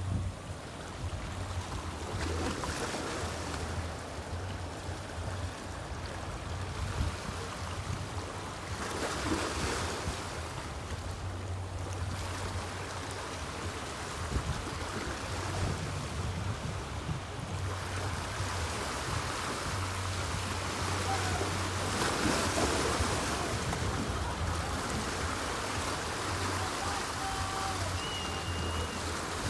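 Waves washing in, swelling and easing every several seconds, over a low steady hum.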